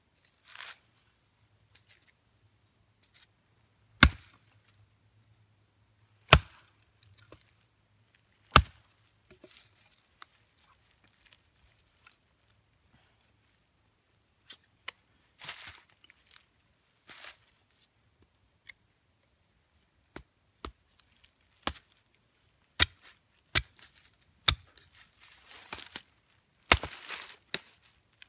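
Firewood being chopped or split: three loud, sharp wooden strikes about two seconds apart, followed by a run of lighter cracks and knocks as the wood is worked into smaller pieces for the fire.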